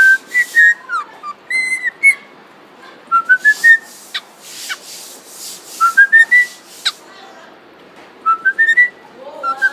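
Cockatiel whistling short rising phrases of stepped notes, three times over, with hissy bursts and sharp clicks in between: its imitation of the call used to summon the household cat.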